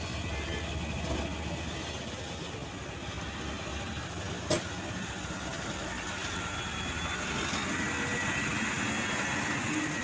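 Heavy truck's diesel engine running steadily, with one sharp click about halfway through.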